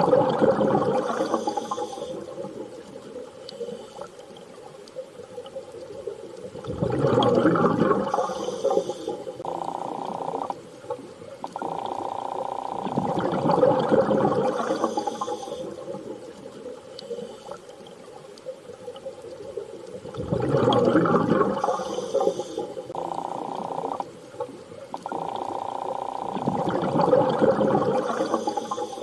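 Looped underwater ambience: a swell of rushing water about every seven seconds, with steady, low, whale-like tonal hums between the swells.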